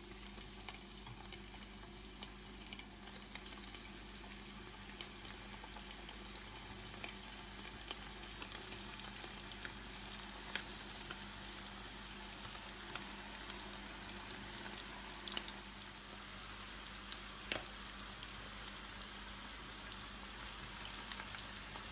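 Breaded chicken pieces deep-frying in a pan of oil: a steady sizzle scattered with crackling pops, growing a little denser as more pieces are dropped in.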